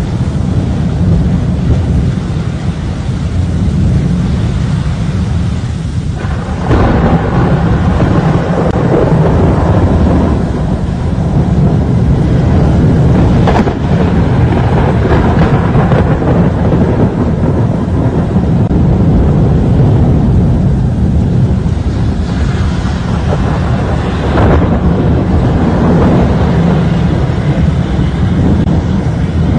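Loud storm noise of strong wind and rain, rumbling low on the microphone. It gets louder about seven seconds in.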